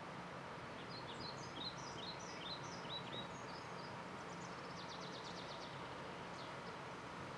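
Small birds chirping in a quick run of short notes over a steady outdoor background hiss, then a fast trill about five seconds in.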